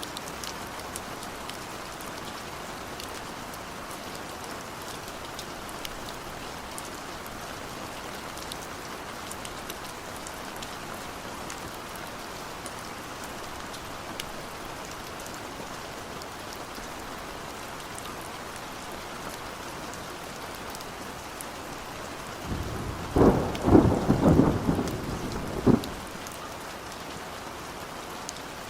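Steady rain falling, with scattered ticks of single drops. About 22 seconds in, a peal of thunder rolls through for some three seconds and is the loudest sound.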